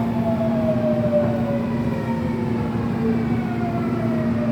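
Subway train's electric traction motors whining as it runs on the rails, several tones falling slowly in pitch as the train slows, over a steady low hum.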